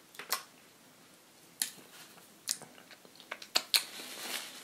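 Close-miked mouth sounds of someone chewing fried chicken and donut: scattered wet smacks and clicks. Near the end there is a denser soft noise as a piece of fried chicken is pulled apart by hand.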